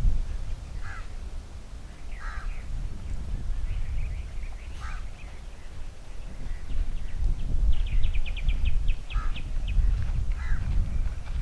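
Crows cawing, about five short calls spaced apart, with a quick run of about ten rapid notes from a bird a little after halfway, over a steady low rumble.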